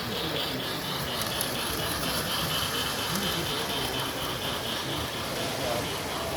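Model trains running on a layout, a steady running noise with a fast rhythmic clicking through most of it.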